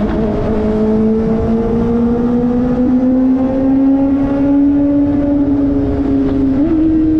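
Kawasaki ZX-4RR's 399 cc inline-four running through an SC-Project slip-on exhaust at steady high revs while riding. The engine note climbs slowly, with a quick small jump in pitch near the end.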